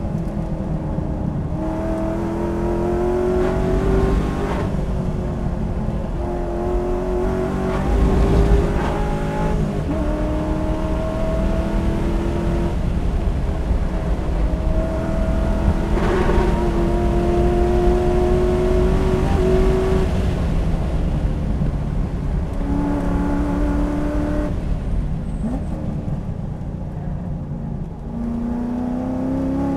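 Corvette Grand Sport's stock 6.2-litre LS3 V8 running hard through the gears, heard from inside the cabin: its pitch climbs in each gear and drops at each shift, again and again. Near the end the engine eases off for a corner, then pulls up again.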